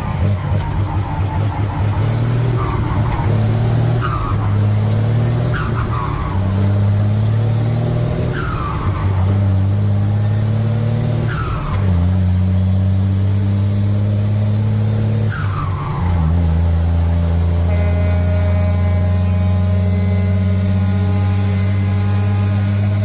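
Truck engine pulling away through the gears: its pitch climbs, drops at each shift, then settles into a steady run. Short falling squeals come every second or two during the shifting.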